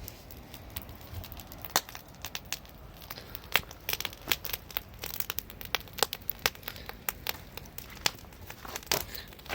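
Irregular crackling and popping, several sharp pops a second, from eggs frying in butter in a pan over a campfire.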